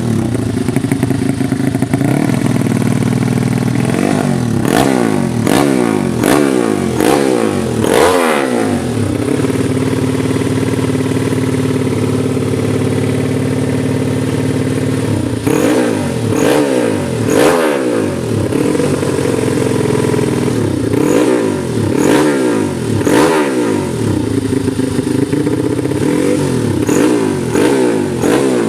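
Fuel-injected motorcycle engine being revved in quick repeated throttle blips, about one a second, held at steady higher revs for several seconds in the middle, then blipped again.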